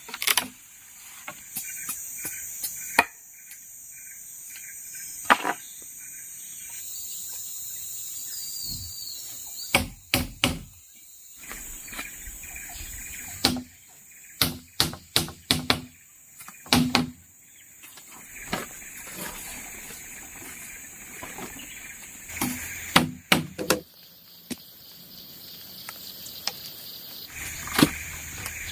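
Scattered sharp knocks of a tool striking wood or bamboo, some single and some in quick runs of four or five, over a steady, high chorus of insects.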